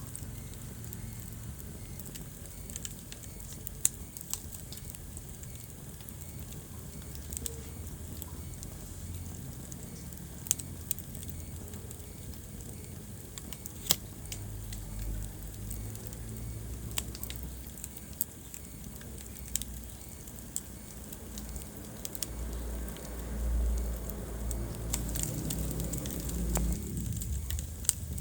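Wood fire burning in a fireplace: sharp pops and crackles over a steady low rumble of the flames, which swells for a few seconds near the end.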